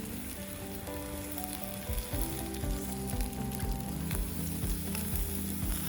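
A steady sizzling, crackling hiss from the campfire and the iron cooking plate, under background music of held notes in a changing melody, with a soft beat coming in about two seconds in.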